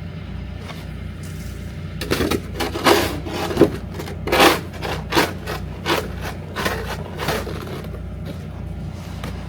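A hand tool scraping snow and ice off a walkway. It makes a run of about ten rough, irregular scrapes, starting about two seconds in and stopping near the end.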